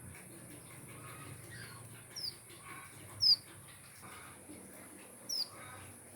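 Finches in an aviary giving short, sharp downward chirps three times, the middle one the loudest, with fainter calls and a steady high hiss behind.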